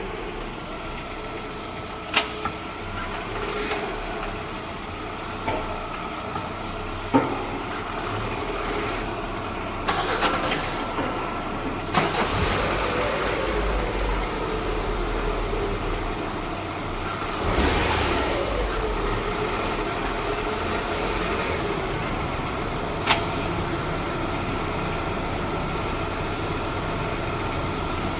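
Squeaking from the clutch actuator of a Lada Vesta's AMT gearbox, with the car's engine idling. There are a few sharp clicks and some louder stretches of actuator noise around the middle.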